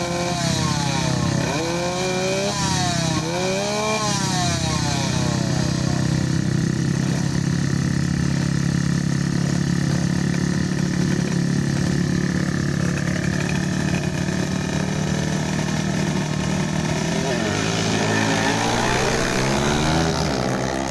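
Tuned small motorcycle engines at full throttle. The pitch climbs and drops back about three times as the rider shifts up through the gears, then holds a steady high buzz, and changes again near the end.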